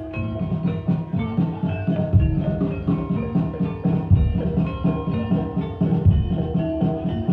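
Gamelan music accompanying a kuda kepang dance. Metallophones play a busy repeating melody over drums, with a deep low stroke about every two seconds.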